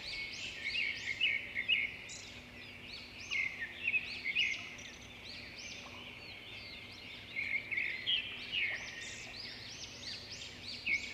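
Small birds chirping continuously, many short high arched notes overlapping, with louder clusters of calls every few seconds.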